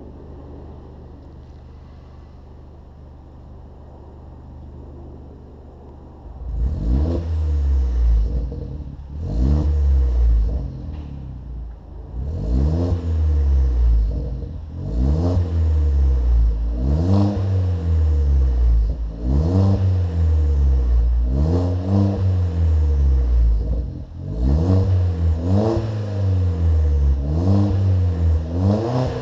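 Exhaust of an Opel Corsa OPC's 1.6-litre turbocharged four-cylinder, fitted with a 3-inch downpipe and free-flowing aftermarket exhaust, idling steadily, then, about six seconds in, revved in a series of about a dozen quick throttle blips, each rising sharply and falling back, roughly every two seconds.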